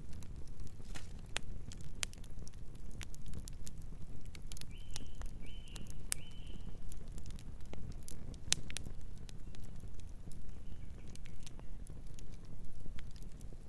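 Wood fire crackling, with frequent sharp pops and snaps over a steady low rumble of burning. Three short high chirps of a distant bird come in quick succession about five seconds in.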